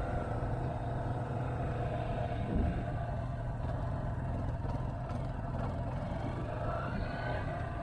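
Motorcycle engine running under way with wind and road noise, a brief thump about a third of the way in and the engine pitch rising near the end.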